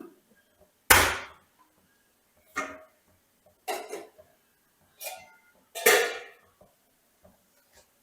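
A series of sharp household knocks and clatters, five in all, each ringing briefly. The loudest comes about a second in and another strong one near six seconds.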